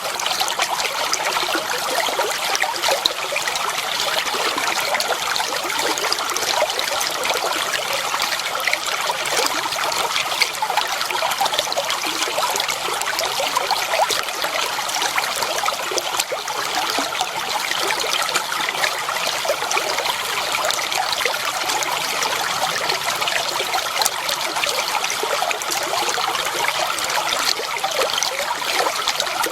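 Shallow water flowing steadily, trickling and splashing over stones in a clear stream.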